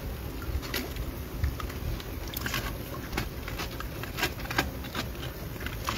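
Rainwater dripping and splashing, with scattered irregular sharp taps over a low rumble.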